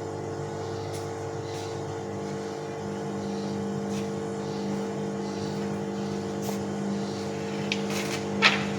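Vintage Bauknecht WAS 1400 washing machine running, a steady motor hum with constant tones. A short, sharp rasping sound stands out near the end.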